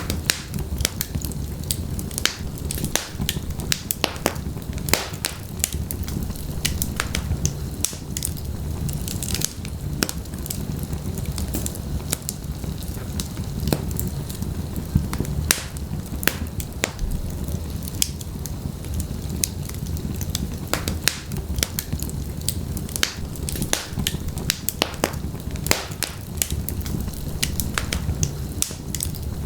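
Wood fire burning in a fireplace: a low, steady rumble of flames with many sharp, irregular crackles and pops.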